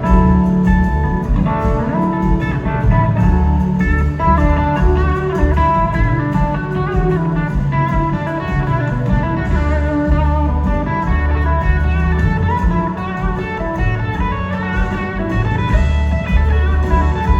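Live blues-rock band playing, with an electric guitar running quick melodic lead lines over steady bass and drums.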